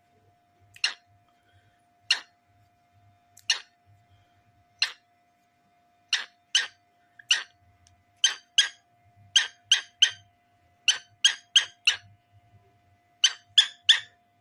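Cockatiel giving short, sharp, high chirps, some spaced out singly and others in quick runs of three or four.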